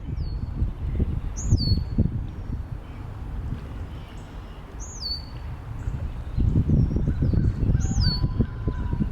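A songbird repeating a short high whistle that slides downward, a few times, over wind rumbling on the microphone; the wind eases in the middle and gusts up again about two thirds of the way through.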